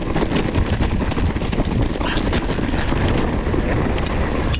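Mountain bike descending a loose, stony downhill trail at speed: a steady rumble of wind on the microphone, with tyres crunching and the bike rattling in quick, irregular knocks over the stones.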